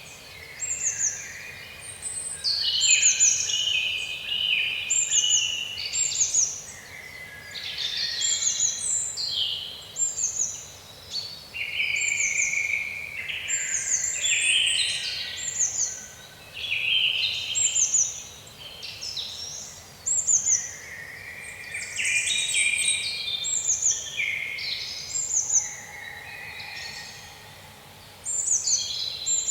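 Songbirds singing and chirping, many short high falling chirp phrases repeating about once or twice a second, several birds overlapping.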